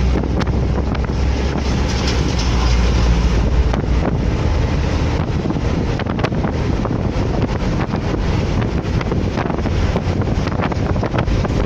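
Wind buffeting the microphone over steady road traffic noise, with a deep vehicle rumble that fades out a few seconds in.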